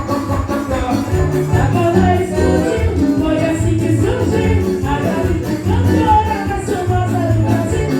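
Live band playing an upbeat Brazilian festa junina tune, with a steady bass beat, tambourine and a melody line.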